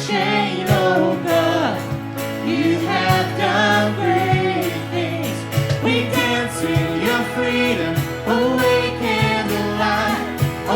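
A worship band playing a contemporary worship song, with singing over steady bass notes and a regular drum beat.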